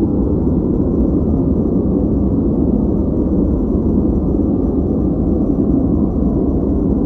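Steady, unbroken ambient noise track sold as white noise for focus, deep and rumbling with no high hiss. It stays even throughout, with no changes or separate sounds.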